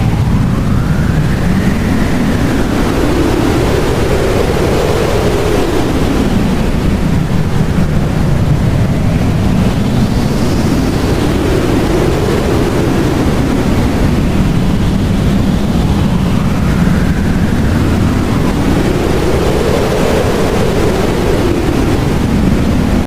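Blizzard wind blowing steadily, with a whistling tone that rises and falls every few seconds over the dense rush.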